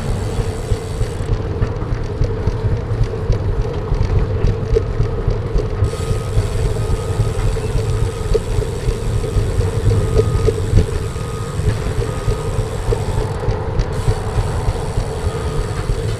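Steady riding noise from a moving road bicycle: a continuous rumble of wind on the microphone and tyres rolling on a concrete path.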